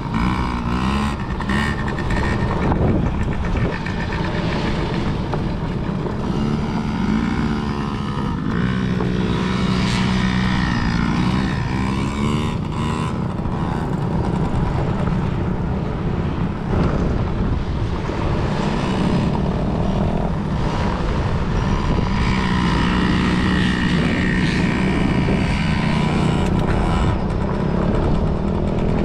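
Kids' dirt bike engines running around a motocross track, the pitch rising and falling again and again as the riders open and close the throttle.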